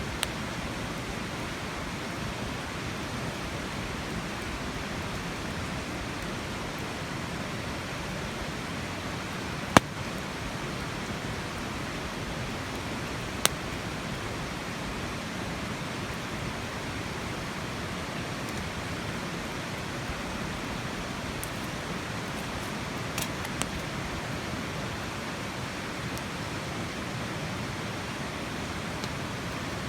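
Wood campfire burning over a steady rushing hiss, with a few sharp single pops: two loud ones about ten and thirteen seconds in and a quicker pair a little after twenty seconds.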